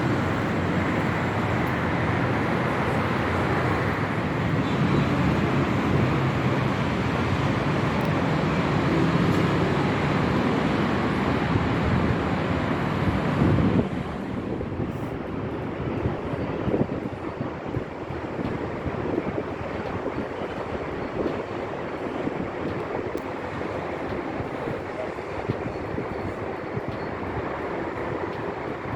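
Steady outdoor noise of highway traffic mixed with wind. About halfway through it cuts suddenly to a quieter, thinner steady hiss.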